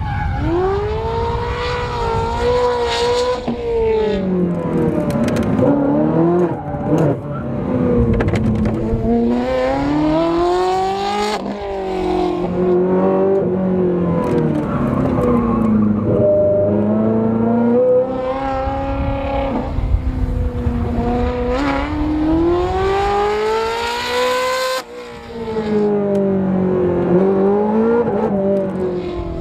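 Ferrari 360 Modena's 3.6-litre V8 through a Capristo exhaust, driven hard on a track. The engine note climbs under acceleration and drops back on lifting off and shifting, over and over, with a sudden sharp cut about 25 seconds in.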